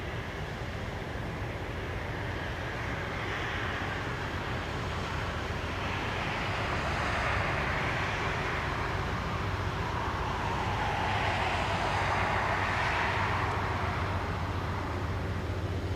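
A passing train's steady rolling noise, swelling and easing in waves, with a low hum underneath.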